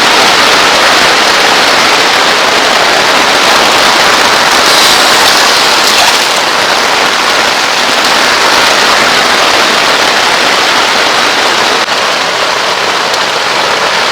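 Torrential rain pouring down in a loud, steady hiss.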